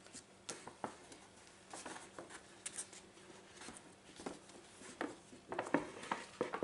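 Irregular light rustling and tapping from hands handling fabric and a lampshade as the fabric is pressed into place on hot glue. The sounds grow busier near the end.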